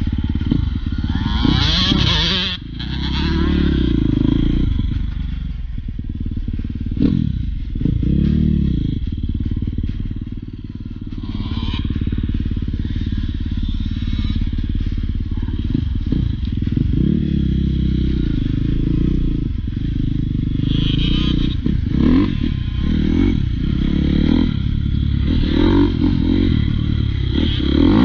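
Dirt bike engine running hard, its pitch rising and falling over and over as the throttle is opened and closed.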